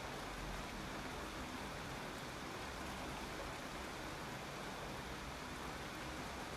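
Steady rain falling: an even, unbroken hiss of many drops without separate strikes.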